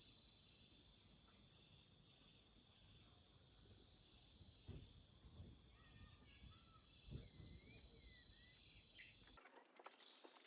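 Faint, steady, high-pitched chorus of crickets and other insects, with a few short bird chirps about six to seven seconds in. The chorus cuts off abruptly near the end.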